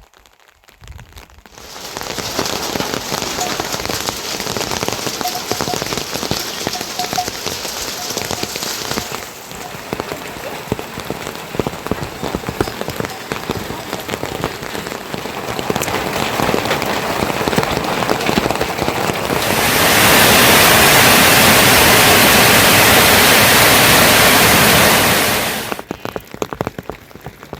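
Heavy rain falling with a steady hiss. It starts a couple of seconds in, swells much louder for about six seconds near the end, then drops off suddenly.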